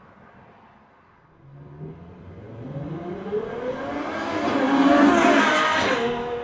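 Ferrari F12 Berlinetta's 6.3-litre V12, breathing through a RYFT valved titanium exhaust with an ECU tune, accelerating hard. Its pitch climbs as it comes closer, it is loudest about five seconds in, and it fades as the car passes.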